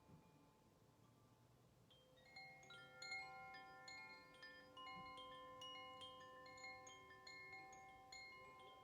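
Faint metal chimes ringing, many clear notes struck one after another and overlapping as they ring on, starting about two seconds in.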